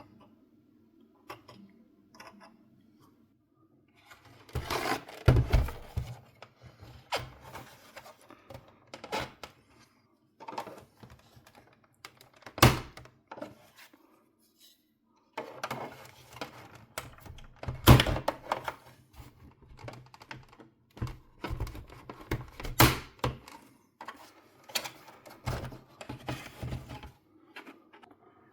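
Irregular clicks and knocks of hard plastic and small tools as a PlayStation 4 FAT console is handled and taken apart.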